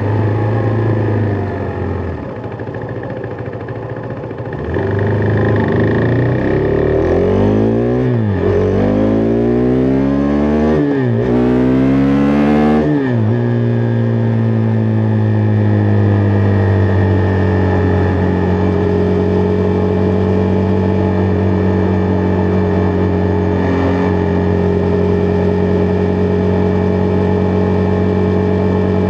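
Husqvarna Vitpilen 401's single-cylinder four-stroke engine under way. It eases off briefly, then accelerates hard, its pitch rising and dropping with three quick upshifts, and settles into a steady cruise.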